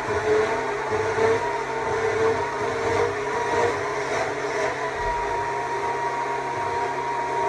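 Stihl MSA 200 C battery chainsaw running while carving wood. Its electric motor whine shifts in pitch as the cut changes, then holds a steady pitch from about five seconds in.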